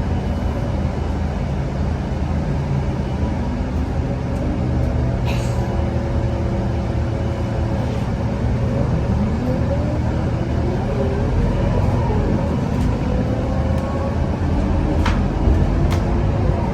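Scania K230UB bus's diesel engine running on the road, with a steady drone; about nine seconds in its pitch climbs for a few seconds as the bus accelerates. A couple of short clicks are heard in the middle and near the end.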